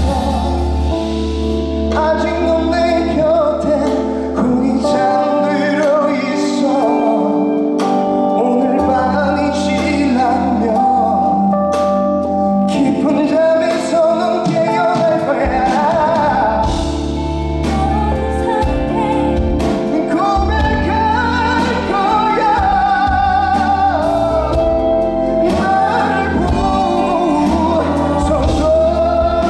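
Live performance of a song: a male lead vocalist singing over instrumental accompaniment with sustained chords and a held bass line, the bass dropping out for a few seconds early on and again midway.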